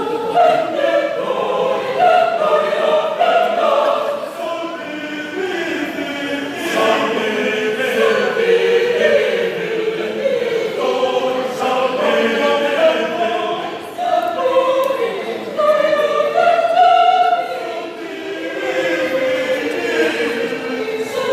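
A choir singing, several voice parts at once in sustained, moving lines.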